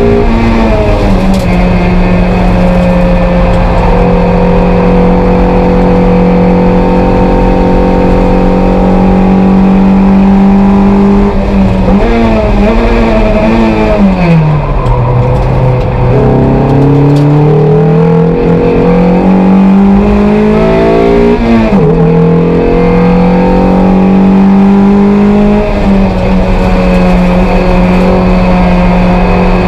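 Toyota MR2 race car's engine, heard from inside the cabin, running at steady revs for about ten seconds. It then blips through downshifts and drops in pitch into a corner, and pulls with rising revs out of it. There is an upshift near the end, after which the revs hold steady.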